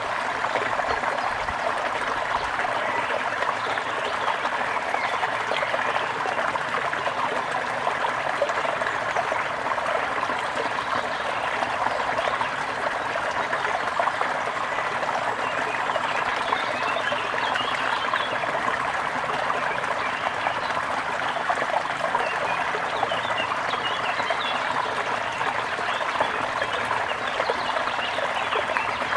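Water trickling and bubbling steadily, with small birds chirping over it in short calls that grow more frequent in the second half.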